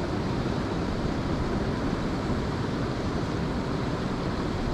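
Steady rushing of creek water, a constant even noise with a rumble low down.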